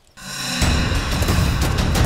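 Tense, dramatic background music swelling in quickly after a brief hush, heavy in the bass.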